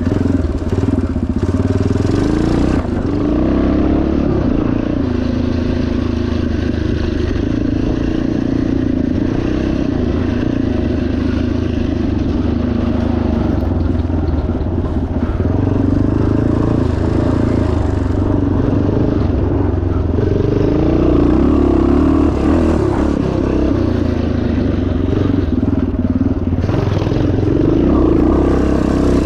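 1977 Yamaha TT500's single-cylinder four-stroke engine running under load off-road, its revs rising and falling with the throttle every few seconds, with some clattering from the bike.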